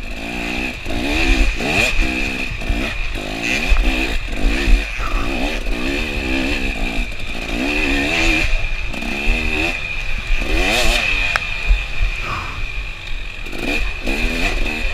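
KTM 300 two-stroke dirt bike engine, heard from the rider's own bike, revving up and falling back again and again as it is ridden hard through a wooded trail.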